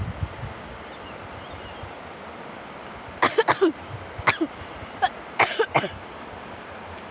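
A person coughing in a few quick bouts, about nine short hacks starting around three seconds in, over a steady outdoor wind hiss.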